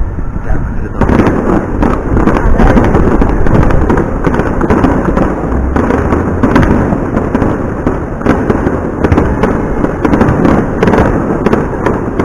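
Fireworks display going off continuously: a dense stream of bangs, booms and crackling bursts overlapping one another.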